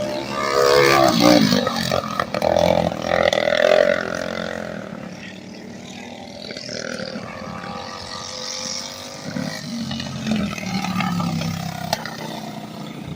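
Small racing engines on a kart track revving as machines pass, their pitch rising and falling, loudest in the first few seconds and then steadier and quieter.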